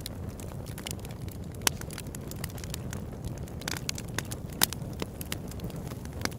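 Open-air campfire burning: a steady low rush under frequent crackles and pops of the burning wood, with two louder pops, one just under two seconds in and one past the middle.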